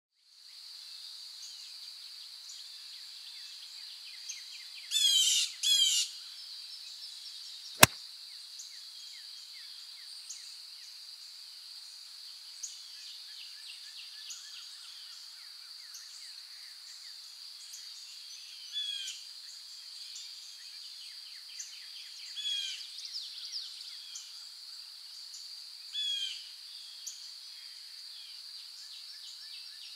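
Birds chirping and calling over a steady high-pitched buzz, with two loud bursts of bird calls about five and six seconds in. A single sharp click comes near eight seconds.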